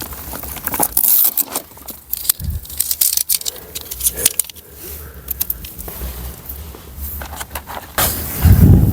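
Irregular clinking, scraping and rustling of objects being handled, with a heavier low thump near the end.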